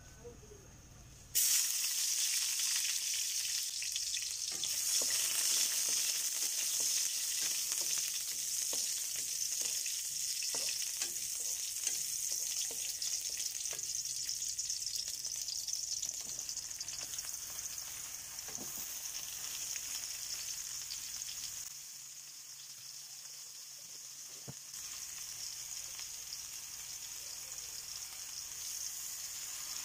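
Chopped onions sizzling in hot oil in a wok, with the steady frying hiss starting abruptly about a second and a half in. A wooden spatula stirs them, scraping and tapping the pan now and then.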